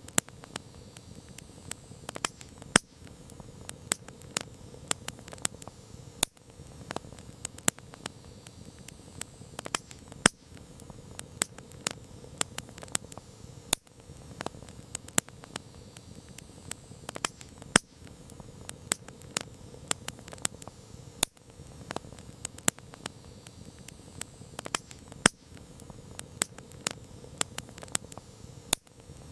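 Wood campfire crackling: irregular sharp snaps and pops, a few much louder than the rest, over a low steady hiss of burning.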